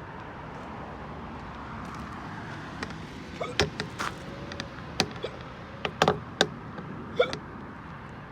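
A person hiccuping several times, mixed with sharp clicks, over a steady background rush. The hiccups and clicks come in the second half.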